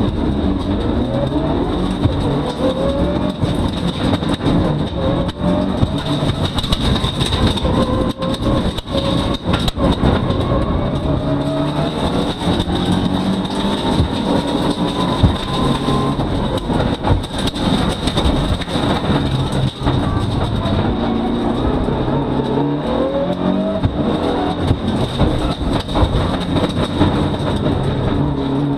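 Mitsubishi Lancer Evolution VII rally car's turbocharged 2.0-litre four-cylinder engine, heard from inside the cabin, pulling hard from a standing start. Its revs climb and drop again and again through the gear changes, with occasional sharp knocks.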